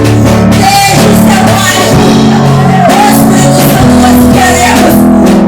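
Live worship music: a band playing with a voice singing a wavering melody over sustained chords, loud and continuous.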